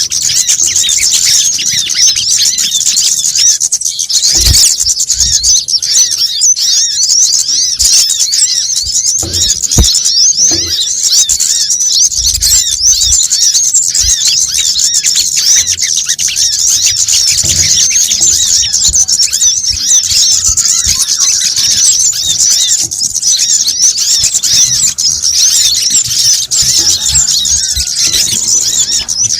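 Bird-lure (suara pikat) recording of sunbirds calling: a dense, busy chorus of fast, high-pitched chirps and twitters, overlapping without a break. A few faint low thumps sit underneath.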